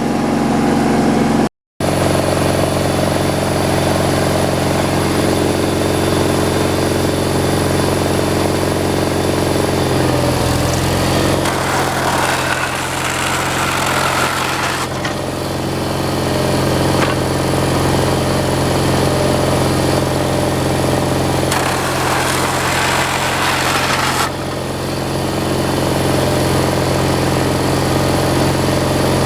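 Gasoline engine powering sawmill equipment, running steadily, with a few shifts in its sound partway through.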